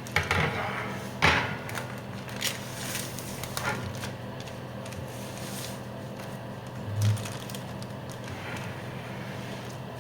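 Kitchen handling sounds: a few sharp clicks and knocks in the first four seconds and a dull thump about seven seconds in, over a steady low hum.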